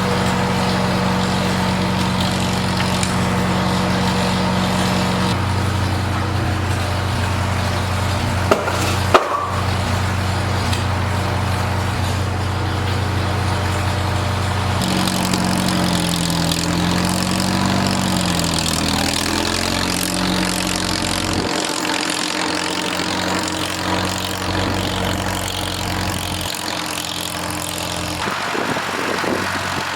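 Small engine of a log splitter running steadily, its pitch sagging and wavering for a few seconds past the middle as it takes load. Two sharp cracks come close together about a third of the way in.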